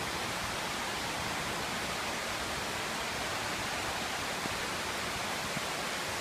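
Heavy rain pouring down, with storm runoff rushing along a driveway: a steady, even hiss of water.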